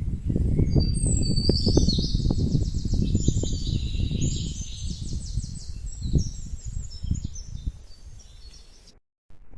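A songbird singing repeated rapid trills and chirps, over a loud low rumbling noise with frequent knocks. The song fades out after about seven seconds, and everything cuts off abruptly near the end.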